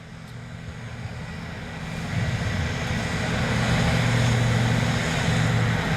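Unlimited-class diesel farm tractor under full load pulling the sled down the track, its engine getting louder over the first couple of seconds and then holding a steady, deep note.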